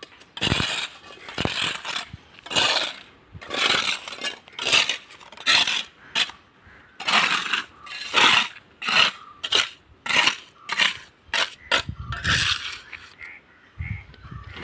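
A mason's steel trowel scraping and knocking on mortar and bricks as they are laid: a run of short, sharp strokes, roughly one a second and irregularly spaced.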